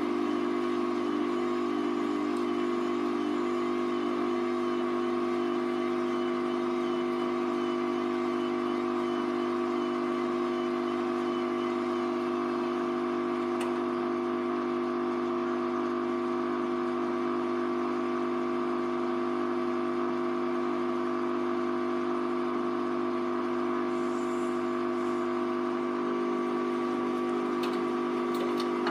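Hoover Vision Tech VT 914 D22X washing machine running with a steady, unchanging motor whine throughout.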